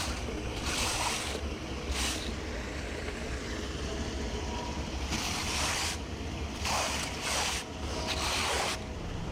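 Rushing floodwater: a steady wash of noise with irregular louder surges.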